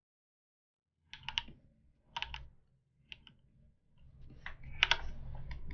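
Computer keyboard keystrokes and clicks in short clusters of a few strokes each, about a second apart, starting about a second in, over a faint low hum.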